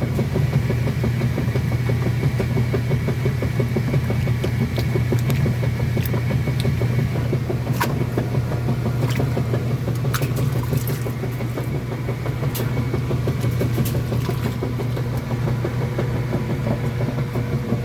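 Kenmore washing machine running: a steady motor hum with a rough churning rumble and a few light clicks.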